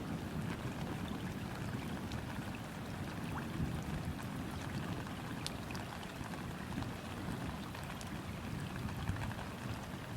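Steady rain falling onto a river's surface, with scattered individual drop clicks and a low rumble underneath.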